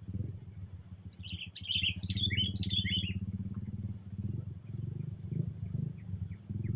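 Sooty-headed bulbul giving a quick, bubbly burst of chattering chirps lasting about two seconds, followed by a few faint single notes. A steady low rumble runs underneath.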